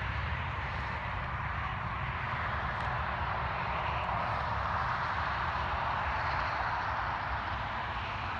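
Steady drone of distant highway traffic: an even hiss with a low rumble underneath.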